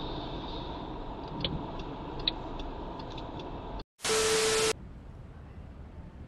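Steady vehicle road noise with a few faint ticks, cut off abruptly about four seconds in by a short burst of loud static hiss with a low steady tone under it, which then stops sharply and gives way to quieter road noise.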